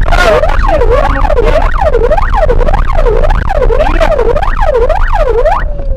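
Emergency vehicle siren in a fast yelp, its pitch sweeping up and down about twice a second over a low road rumble. It cuts off near the end.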